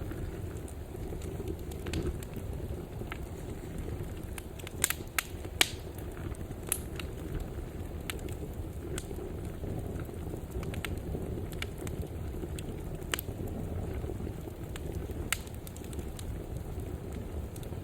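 Fire burning in a fireplace: a steady low rumble of flames with scattered sharp crackles and pops. The loudest pops come in a small cluster about five seconds in.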